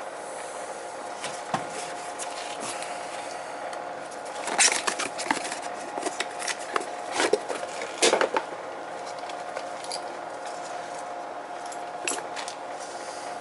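Sharp clicks and clatter of tools and small parts being handled, over a steady hum. The clicks come in a busy cluster in the middle and a few scattered ones before and after.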